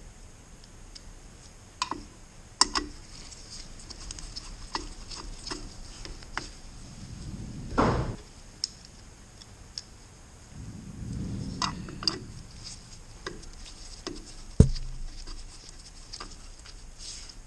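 Scattered light clicks and clinks of hand tools and metal muffler parts being handled as a chainsaw muffler's bolts are refitted and tightened by hand, with a couple of brief rustles and one sharper knock near the end.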